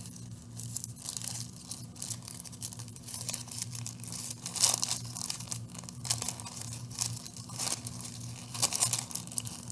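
Tissue paper crinkling and rustling in irregular crackles as a strip is pinched and crimped by hand into a rose shape.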